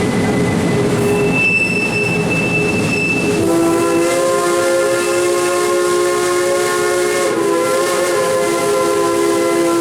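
Steam locomotive whistle blowing one long, loud blast that starts about a third of the way in and holds to the end, over the rumbling noise of the moving train. A brief high thin tone sounds shortly before the whistle.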